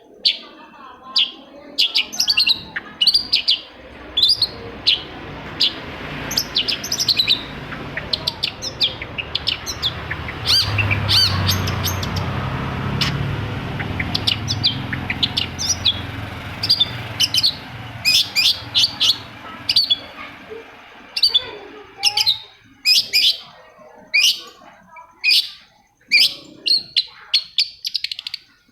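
Long-tailed shrike (cendet) singing: rapid runs of short, sharp, high chirps that mostly sweep downward. A low rumble sits underneath for a stretch in the middle.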